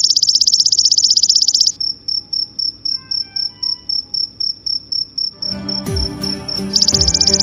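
A loud, high, very rapid insect trill, typical of a cricket, breaks into a slower series of chirps about four a second. Near the end, background music with a thumping beat comes in under it, and the fast trill resumes.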